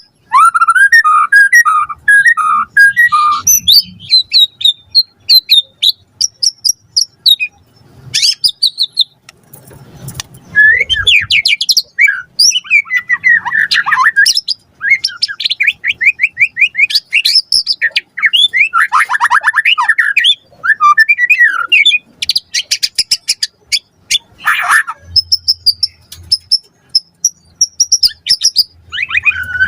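White-rumped shama singing a loud, varied song of whistles, trills and rapid runs of repeated notes, delivered in short phrases with brief pauses between them.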